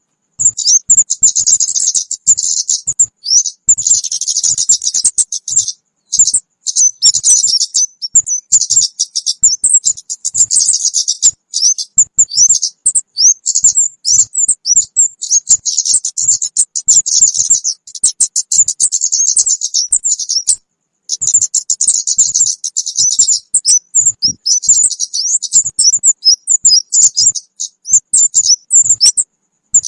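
Kemade bird calls used as a trapping lure: a dense run of rapid, high-pitched chirps with a few brief breaks.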